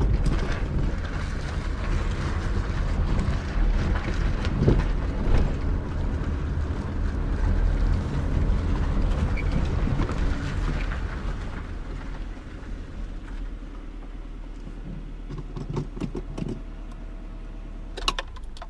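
Car being driven on a test run: a steady low road and engine rumble with a few light knocks, getting quieter over the last several seconds. No clear suspension knock stands out, which the driver takes to mean the knock in the steering and suspension is gone for now.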